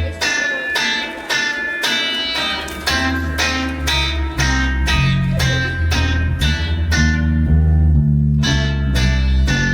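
Live band playing an instrumental passage: electric guitar chords struck in a steady rhythm over a bass line.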